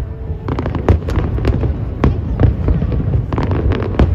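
Aerial fireworks display: a rapid run of sharp cracks and bangs starting about half a second in, over a continuous low booming rumble.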